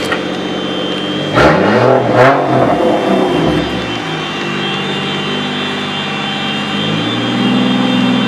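Toyota 2JZ-GTE inline-six with a big single Borg Warner S366 turbo running at idle, revved in two quick throttle blips about a second and a half and two seconds in, each rising and dropping back, then idling on with a slight rise in revs near the end.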